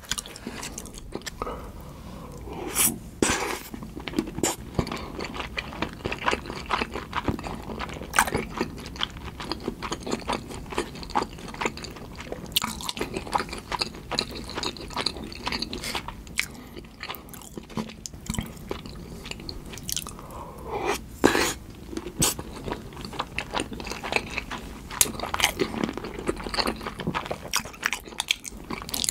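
Close-miked chewing and biting of salmon sushi in tartar sauce: wet mouth sounds with irregular crunches, a few standing out louder.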